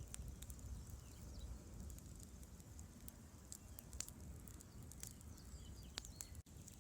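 Campfire crackling, with a sharp pop every second or two, over the low steady rush of river water and faint bird chirps. The sound drops out for an instant near the end.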